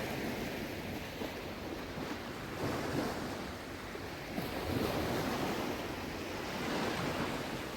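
Shallow sea water sloshing and lapping, swelling softly every couple of seconds, with wind buffeting the microphone.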